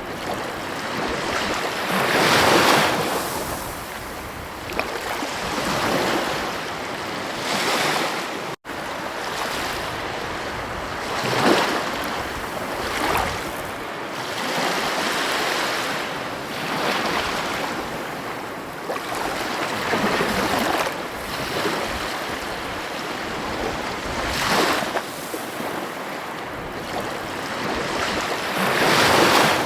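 Ocean surf breaking on a beach: a steady wash of water noise that swells every few seconds as each wave comes in and then eases off. There is a momentary cut-out in the sound about eight and a half seconds in.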